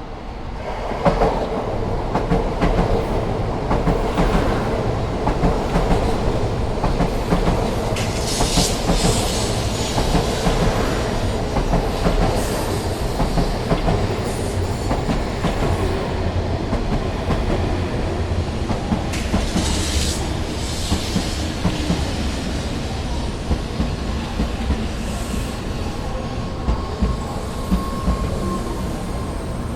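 N700-series Shinkansen train rolling slowly into a platform: steady running noise with the wheels clicking over the track. There are hissing passages twice and a thin squeal near the end as it brakes.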